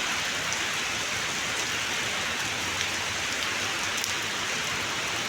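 Heavy rain falling steadily: a dense, even hiss of rain on hard surfaces with a few faint drop ticks.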